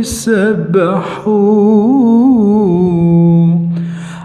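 A man singing an Arabic Christian hymn, drawing one word out in a long ornamented run of notes. The phrase settles on a long held low note that fades away near the end.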